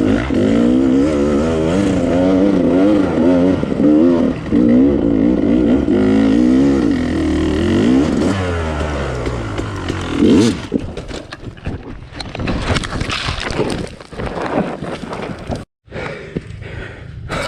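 Dirt bike engine revving up and down as it rides a trail. After about ten seconds the engine settles lower and rattling and clattering take over, and the sound cuts out for a moment near the end.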